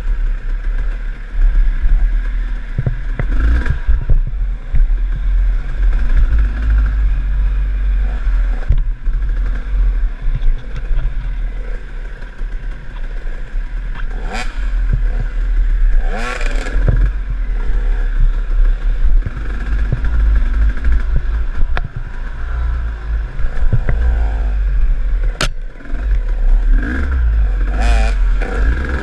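KTM enduro dirt bike running on a trail, its engine rising and falling with the throttle, heard from an onboard action camera with a heavy low rumble. Scattered knocks and rattles run through it, a sharp one near the end.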